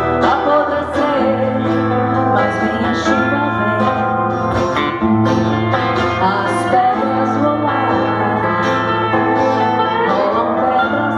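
Live band music with guitar over a steady low bass note, with notes that slide up and down in pitch.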